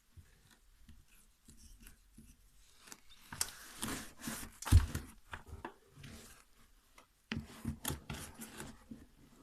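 Nike Air Monarch IV sneaker being handled: irregular rubbing and scraping of the shoe's materials, with scattered clicks and a sharp thump about halfway through.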